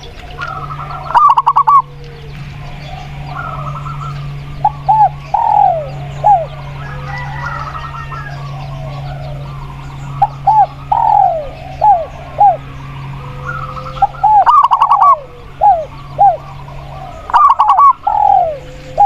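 Doves cooing: spotted dove and zebra dove, in repeated phrases of short, arching coos. Three loud, brief, rapidly pulsing bursts come about a second in, around 14 seconds and near the end. A steady low hum runs underneath.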